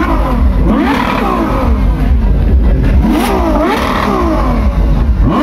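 Ferrari sports car engine revved hard several times, the pitch sweeping up and falling back with each blip.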